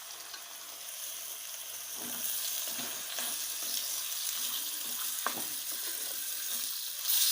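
Chicken pieces sizzling in hot oil and masala in a pan while being stirred, with a few knocks of the spoon against the pan. The hiss grows after about two seconds and swells louder near the end.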